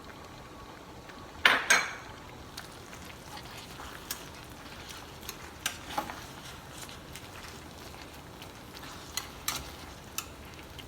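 A metal utensil clinking and tapping against a pan, with a loud double clink about a second and a half in and a few lighter taps after, over a faint steady sizzle of the pasta and mushroom sauce cooking on low heat.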